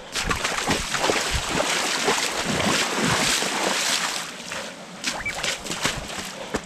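Running footsteps on a dirt trail, with a rushing noise that swells over the first few seconds and fades away about four seconds in.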